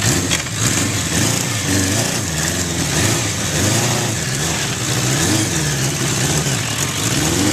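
Motorcycle engine running, its revs rising and falling over and over, roughly once a second.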